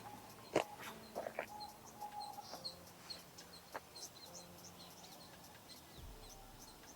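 Faint birds calling: many short high chirps, with a few lower clucking calls and scattered sharp clicks.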